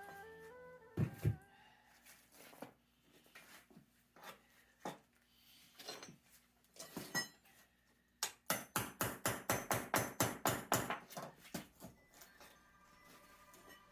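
Scattered single knocks, then a quick run of sharp strikes at about six a second lasting several seconds, as of hammering on a concrete base. Background music comes back near the end.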